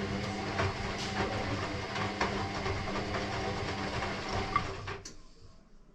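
Electrolux EW6S404WU ecobubble washing machine running mid-wash: a steady motor hum under a wash of churning and light knocks, which stops abruptly about five seconds in.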